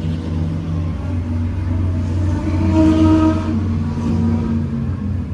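A race car's engine is heard passing on the circuit. It swells to its loudest about three seconds in and then fades, over a steady low rumble.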